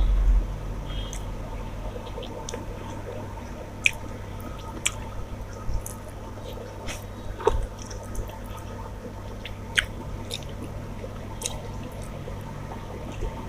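A person chewing a mouthful of rice and curry, with wet mouth sounds and scattered sharp clicks and smacks, over a steady low hum.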